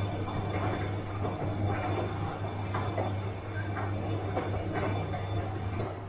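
Bosch washing machine running through its cycle: a steady low motor hum with irregular swishing and knocking as the drum turns the wet load, and a faint high whine that stops near the end.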